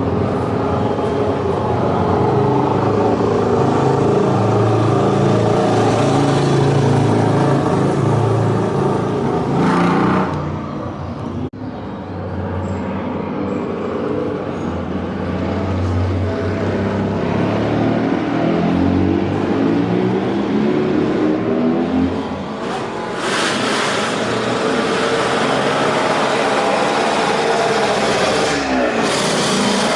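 JAP-Triumph classic racing motorcycle engine running hard under acceleration. The pitch climbs repeatedly as it revs up through the gears, with brief throttle lifts about ten seconds in, again a little past twenty seconds, and near the end.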